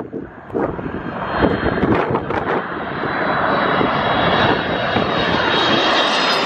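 Jet airliner engines on final approach passing low overhead, the roar building over the first few seconds with a steady high fan whine on top. Wind buffets the microphone near the start.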